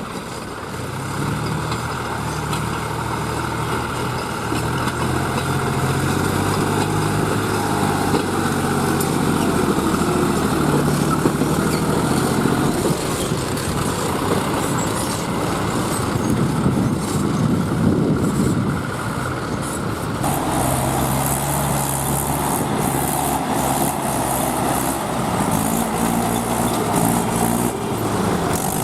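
Tractor diesel engine working hard to haul an overloaded trolley stuck in mud, its pitch stepping up and down as it is revved. About two-thirds of the way through, a second, higher-pitched engine note comes in alongside.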